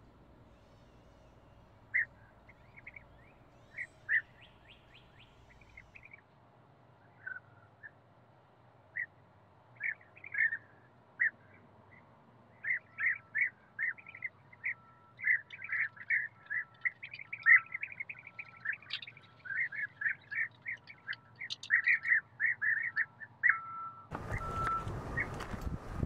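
Small birds chirping and twittering in short, quick notes, sparse at first and growing busier and louder from about halfway. Near the end a loud, even rush of noise comes in.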